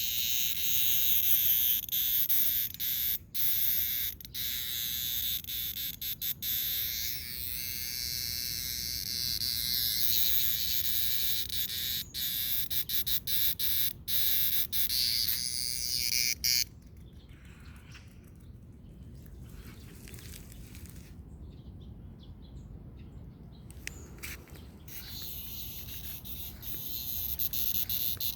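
A cicada held in a pet's mouth, buzzing loudly in a high, harsh, electric-toy-like drone that keeps cutting out in short breaks. About 17 seconds in the buzz drops away to a faint flutter, and it starts up strongly again near the end.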